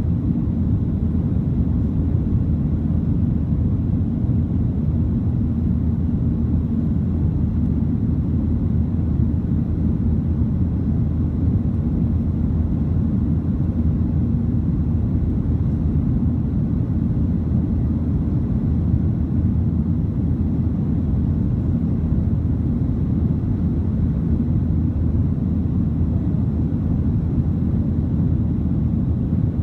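Steady low rumble inside the cabin of a Boeing 737-900 jetliner: engine and airflow noise heard from a passenger seat, with no rise or fall.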